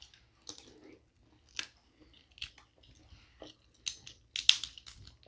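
Close-up chewing and lip smacking of sauce-coated seafood boil food, heard as scattered short wet clicks and crackles. They cluster more densely near the end.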